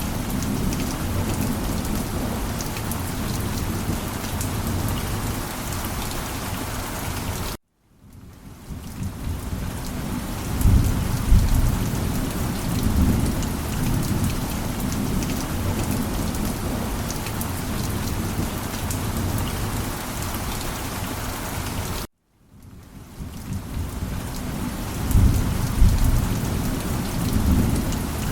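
Steady heavy rain with low rolls of thunder swelling twice. Twice the sound cuts out abruptly to silence and fades back in, the seams of a looped recording.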